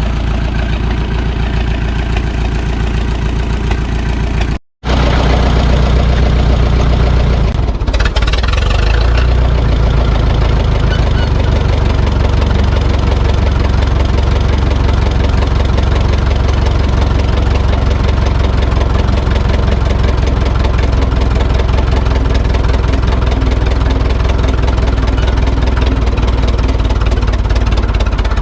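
Ferguson tractor engine running steadily, broken once by a sudden short gap about five seconds in.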